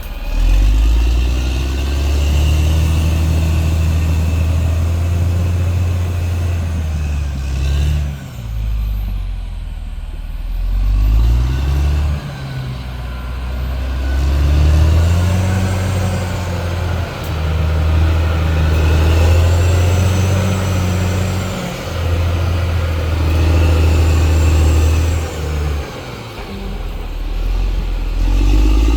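Caterpillar D6R XL bulldozer's diesel engine working under load, its pitch and level rising and falling as the load changes. It eases off for a few seconds a little before the middle, then pulls hard again.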